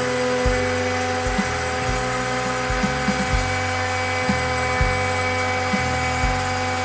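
DIY CNC router running a cut: a steady spindle whine, with the stepper motors' low hum jumping to a new pitch, often with a click, every fraction of a second as the axes change speed and direction.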